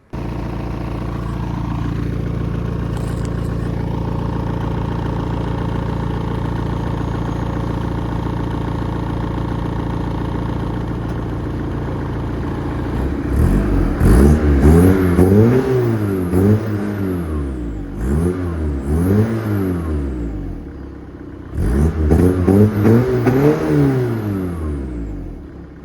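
Audi 80 B2's 1.9 TDI four-cylinder turbodiesel through a custom 51 mm exhaust, idling steadily for about 13 seconds, then revved in a string of quick rises and falls, a short pause, and another burst of revs before settling back.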